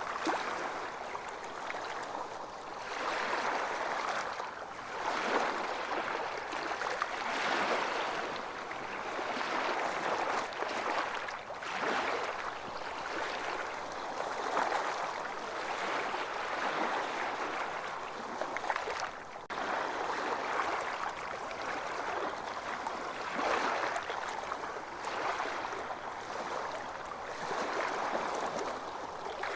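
Ocean surf washing onto a beach, the wash swelling and easing every few seconds.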